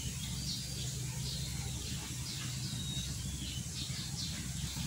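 Small birds chirping faintly, short high calls scattered through, over a steady low hum.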